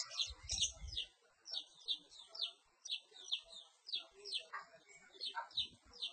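Perci bird giving a run of short, high chirps, each sliding down in pitch, about two a second. There are a few low thumps in the first second.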